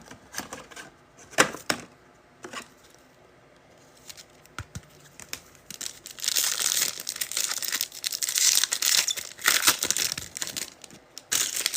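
A few light clicks of handling, then from about six seconds in a long run of crinkling and tearing as a foil trading-card pack wrapper is ripped open.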